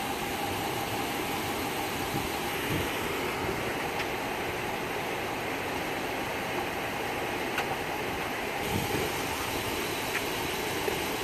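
Steady hum of idling patrol-car engines over outdoor background noise, with a few faint clicks.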